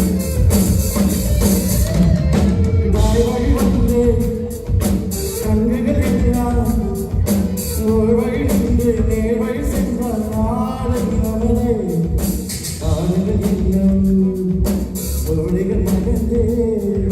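Live band music: drum kit and band playing, with singing.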